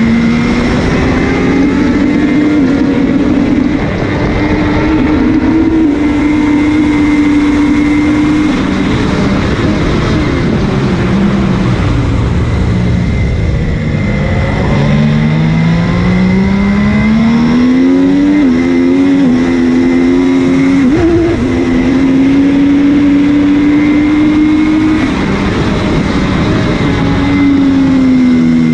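MV Agusta F3 inline-three racing engine heard from on board at racing speed, revving up and shifting through the gears with stepped changes in pitch. The pitch falls away under deceleration about halfway through and again near the end, under a constant rush of wind.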